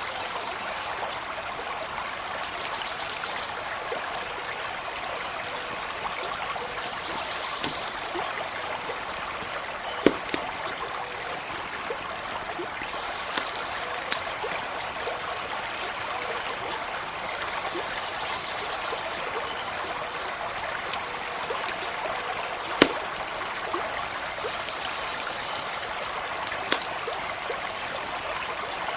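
Stream of water running steadily, with a campfire giving a handful of sharp crackling pops, the loudest about two thirds of the way through.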